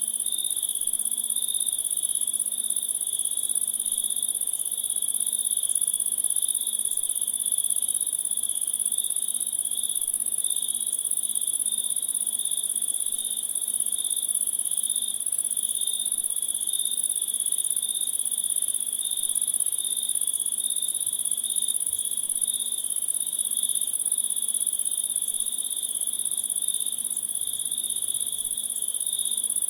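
Steady chorus of crickets and other insects: one very high, continuous shrill layer over a lower trill that pulses gently. A faint low hum sits beneath.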